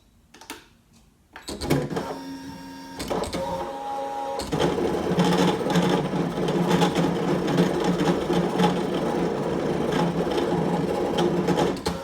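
Brother ScanNCut electronic cutting machine cutting out a scanned shape from paper: the motors driving the cutting head and mat run with a steady whirring buzz. It starts about a second and a half in after a couple of clicks, gets louder from about four seconds in, and stops near the end.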